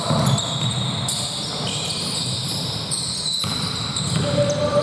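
Basketball game noise echoing in a gym: the ball bouncing on the court, short high squeaks, and the steady clatter of play. There is one sharp knock about three and a half seconds in.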